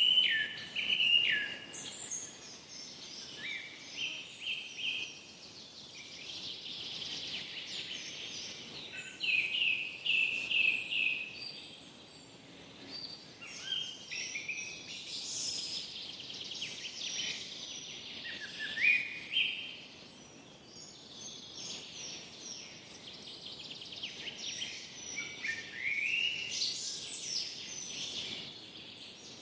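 Several birds singing and chirping over a soft background hiss, the songs coming in clusters of short notes and trills that overlap, some falling in pitch.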